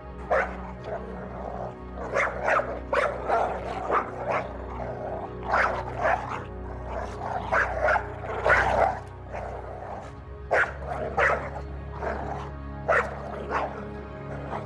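A dog barking repeatedly in short calls over steady background music.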